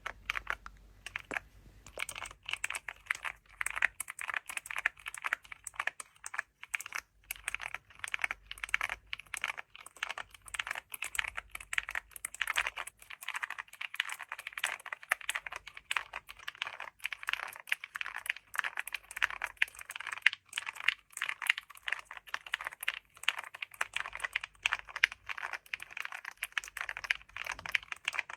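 Fast, continuous typing on a computer keyboard, keys clicking in a dense stream.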